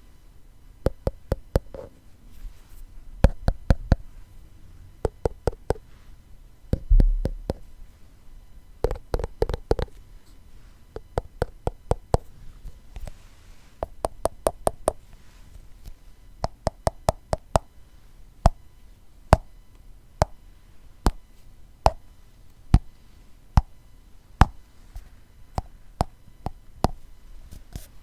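Tapping on a glass container, sharp clicking taps. They come in quick runs in the first half, with a low thud about seven seconds in, then slow to single taps about once a second.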